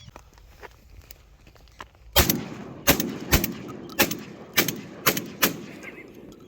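A quick volley of about seven gunshots, irregularly spaced roughly half a second apart, fired at birds. Each shot rings briefly after it. The volley begins about two seconds in, after a few faint clicks.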